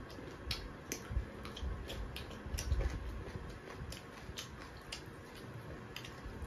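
Close-miked eating sounds: chewing and lip smacking over buffalo meat curry and rice eaten by hand, heard as irregular small wet clicks a couple of times a second.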